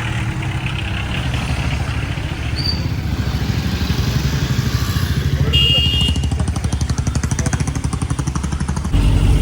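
A vehicle engine running with a fast, even low pulsing, with a short high-pitched tone about five and a half seconds in. Near the end the sound changes suddenly to a louder, steadier low hum.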